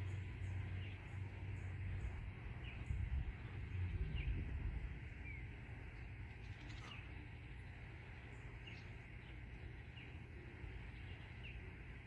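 A songbird repeating short, sharp chirps about every one to two seconds, the calls of an irritated bird. A steady low rumble lies underneath and is a little louder in the first few seconds.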